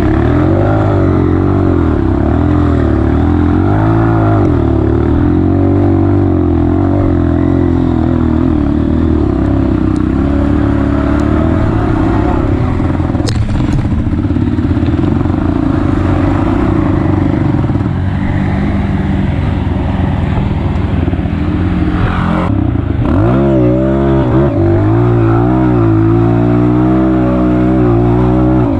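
Honda CRF230F's single-cylinder four-stroke dirt-bike engine running under load, its revs rising and falling with the throttle and gear changes, loudest and most changeable near the end.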